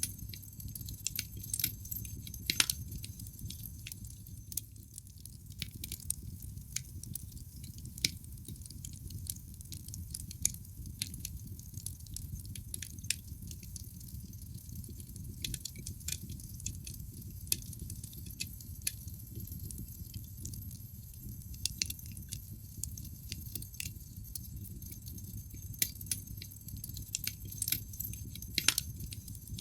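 Logs burning in a fireplace, crackling: many irregular sharp pops and snaps, a few of them louder, over a steady low rumble of the flames.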